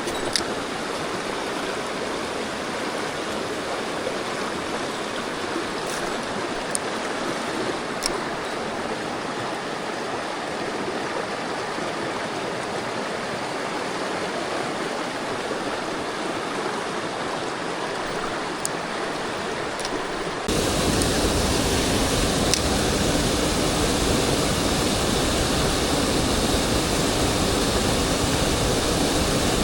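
Mountain stream water rushing steadily. It turns suddenly louder and fuller about two-thirds of the way through, and a few faint, sharp ticks are scattered over it.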